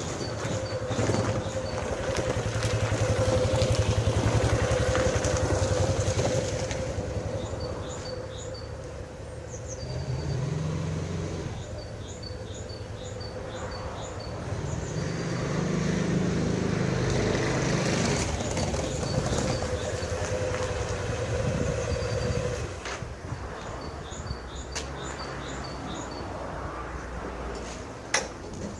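Motorcycle engine running after a wash, its speed rising and falling a few times; it runs properly.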